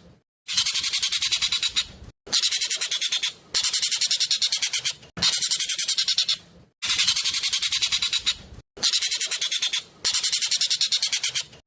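Jovin (ekek keling) song, a loud, fast chatter of rapid repeated high notes. It comes in bursts of about one and a half seconds, each separated by a short pause.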